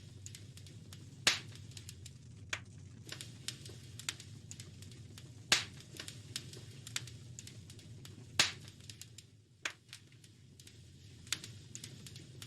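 Wood fire crackling in a fireplace: irregular small snaps with three much louder pops, about a second in, halfway through and about two-thirds through, over a steady low rumble.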